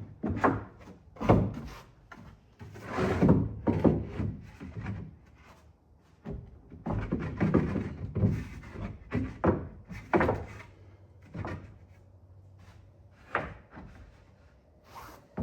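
Notched bed-platform panels being handled and slotted together in a truck bed: irregular knocks, thuds and scraping as the pieces are fitted and hooked into each other.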